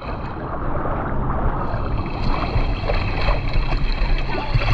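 Rushing, splashing water with wind buffeting the microphone, a dense steady noise with a low rumble.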